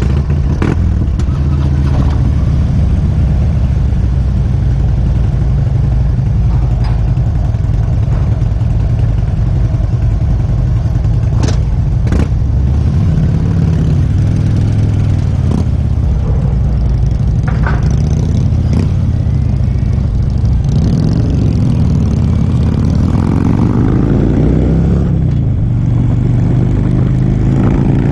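Harley-Davidson V-twin motorcycle engine running under way at steady speed; in the last several seconds its pitch falls and rises a few times as the throttle is rolled off and on and it shifts.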